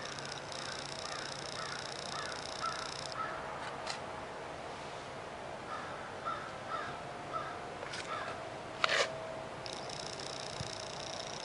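Birds calling: a series of short calls, with a high buzzy trill in the first three seconds and again near the end, and a brief sharp knock about nine seconds in.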